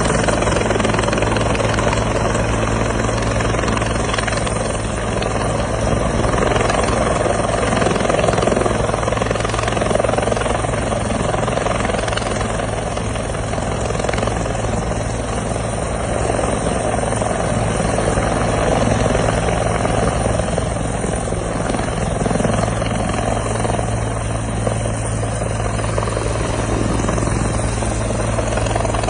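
Firefighting helicopter running steadily: a continuous low hum under a dense rushing noise from the rotor and engine, with no change in pace.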